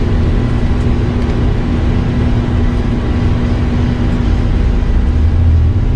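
Boeing 747-200 flight deck noise in the initial climb just after takeoff: a loud, steady rumble of engines at takeoff thrust and rushing air, with a steady hum running through it.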